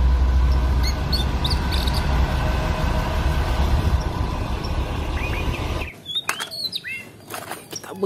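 Small birds chirping over a low, steady rumble that cuts off suddenly about six seconds in.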